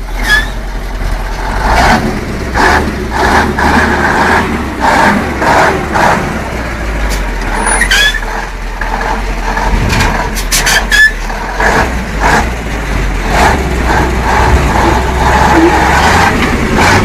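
Heavy truck engine running steadily, with repeated clanks and knocks and a few brief high squeals or hisses about eight and eleven seconds in.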